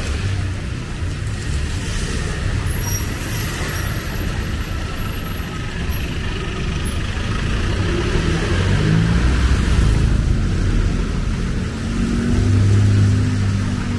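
Street traffic: motor vehicles running and passing close by over a steady hiss, with a louder low engine rumble near the end.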